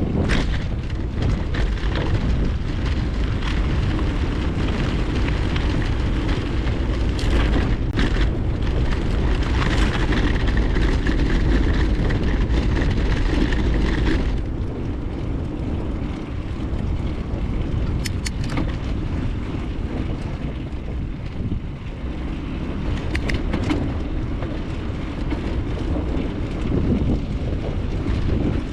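Wind rushing over an action camera's microphone on a moving bicycle, with rumbling tyre and road noise. It is heavier for about the first half and eases off partway through, with a few short sharp clicks or rattles.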